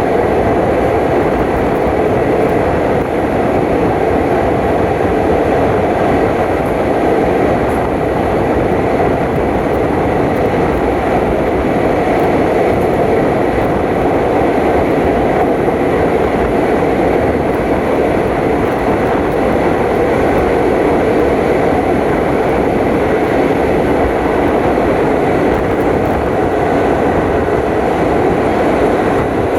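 Passenger train running steadily, a continuous rumble of wheels on the track.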